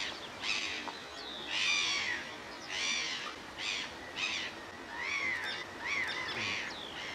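Black-headed gulls calling over and over while they squabble in the air, about one to two calls a second.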